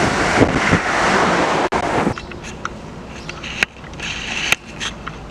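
Passenger train passing close along a station platform at speed: a loud, steady rush of wheel and air noise that cuts off suddenly about two seconds in. A quieter outdoor background with a few faint clicks follows.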